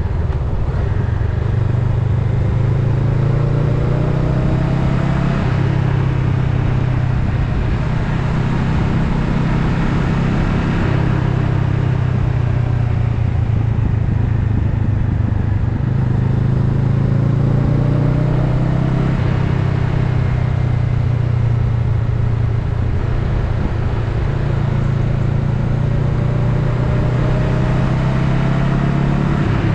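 Honda Rebel 500's parallel-twin engine running while riding, its pitch rising three times as the bike picks up speed, over a steady rush of wind and road noise.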